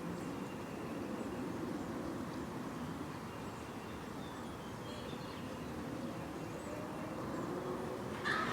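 Outdoor yard ambience: a steady low rumble with a few faint bird chirps about halfway through, and a short, louder pitched sound right at the end.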